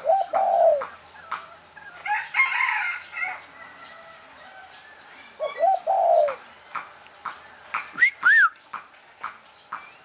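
Birds calling with no speech: a low falling call at the start and again about five and a half seconds in, a rougher call about two seconds in, and a pair of short, high arched notes about eight seconds in.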